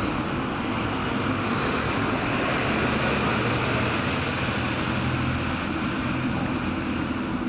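Steady road traffic noise, with a motor vehicle's low engine hum growing louder a couple of seconds in and fading again near the end.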